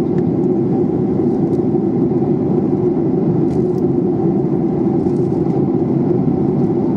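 Steady cabin noise of a jet airliner in flight: an even rush of engine and airflow noise heard from a passenger seat, with a few faint light clicks.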